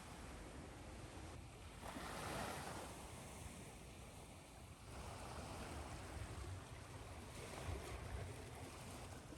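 Ocean surf washing ashore, soft waves swelling and falling back over a steady white-noise hiss; swells rise about two seconds in and again about five seconds in.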